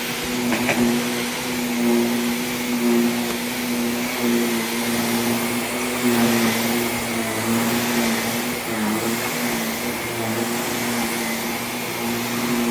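Vacuum cleaner running steadily across a rug: a steady motor whine over a broad rush of air, its pitch dipping briefly about nine seconds in.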